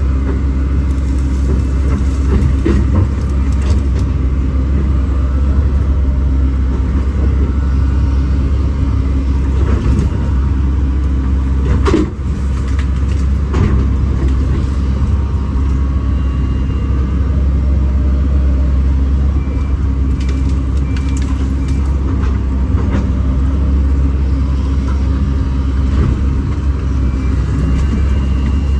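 Kobelco SK210 excavator's diesel engine running steadily while the machine works, with scattered knocks and one sharp knock about twelve seconds in.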